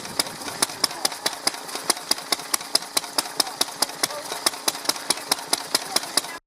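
Vintage stationary engine running steadily, with a sharp, regular click at about four to five a second.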